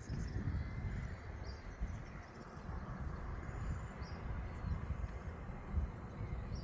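Outdoor ambience: an uneven low rumble, with a few short, high bird chirps scattered through it.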